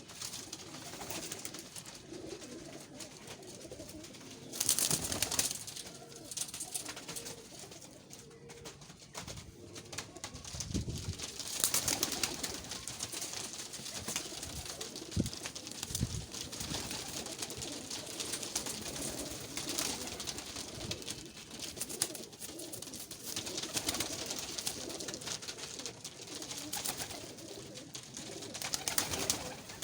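Domestic pigeons, Sherazi and Khal breeds, cooing in low, repeated murmurs, with a few louder bursts of noise around five and twelve seconds in.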